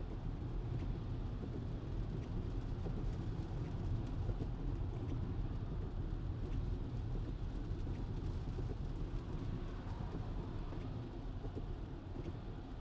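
Steady road and tyre noise of a Tesla driving on a wet road in the rain, heard as a low, even rumble.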